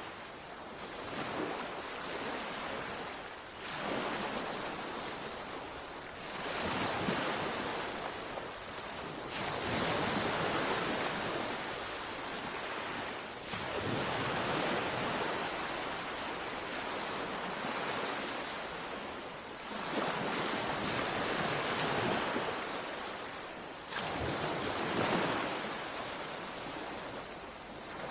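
Sea waves breaking on a shore, one surge of surf every few seconds, each rising and washing back.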